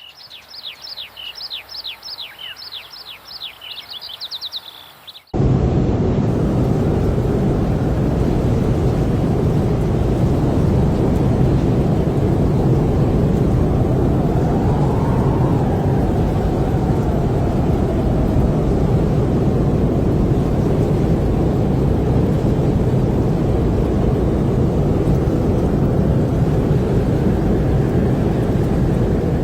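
A bird calling in a quick series of descending whistles, then an abrupt cut about five seconds in to a loud, steady gale. The wind noise is heaviest in the low end, with a faint rising and falling howl partway through.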